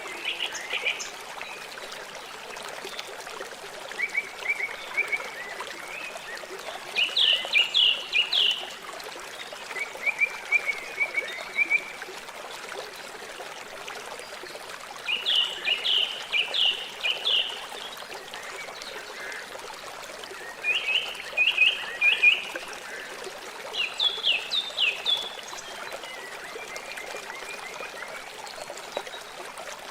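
River water flowing steadily. A bird repeatedly sings short phrases of a few quick high notes every few seconds.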